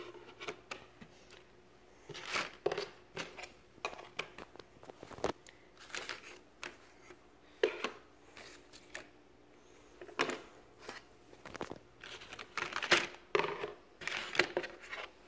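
Puzzle pieces being handled and fitted together: scattered rustling and sharp clicks, in irregular bunches with quiet gaps between.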